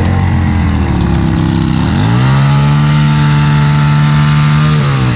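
A chopper motorcycle's engine running through a very loud exhaust. It is revved up about two seconds in, held at high revs for nearly three seconds, then drops back to idle near the end.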